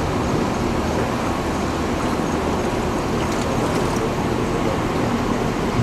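Steady low rumble and hiss of a ride boat travelling along its water channel.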